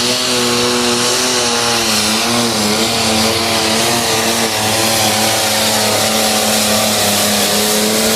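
Pro stock diesel pulling tractor's engine running flat out under load as it drags the sled, its pitch held nearly steady with small wavers a couple of seconds in.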